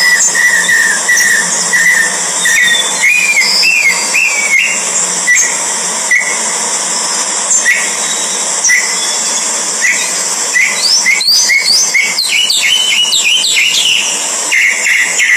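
Bird chirping: short high calls about once a second, coming quicker and in clusters toward the end, over a steady high-pitched hiss.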